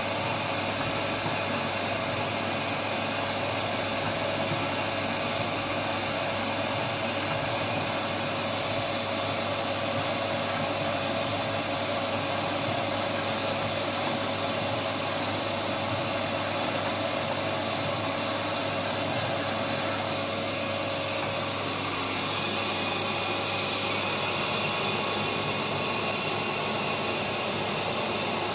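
Cutting plotter running while it cuts magnetic sheet into fridge magnets: a steady machine whir with a constant high tone, its lower hum fading out about two-thirds of the way through.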